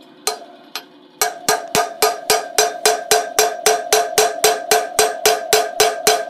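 Hammer blows driving a wheel bearing into its hub on the sprocket side, each strike ringing like metal: two strikes, then from about a second in a steady run of about four blows a second.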